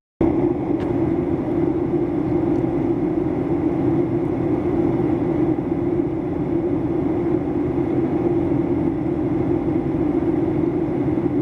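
Steady cabin noise inside a Boeing 737-800 in flight: the even hum of the engines and airflow, with one strong low drone.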